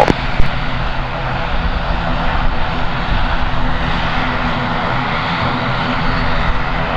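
Airliner's engines running at a steady level, a rushing noise with a hum of several steady tones, as the aircraft cleared for takeoff on runway 34 powers up.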